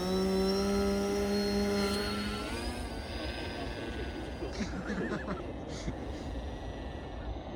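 Twin tractor propellers of a converted Maxi Swift RC flying wing running at high throttle: a steady whine that rises slightly at the start, holds, then falls away about two and a half seconds in.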